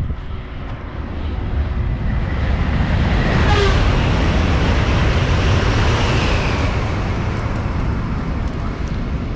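A vehicle passing close by, its noise building to a peak about three to four seconds in, then slowly fading, with a brief squeal near the loudest point.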